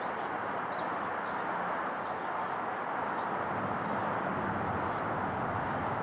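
Steady, even roar of background noise, with small birds chirping faintly every so often.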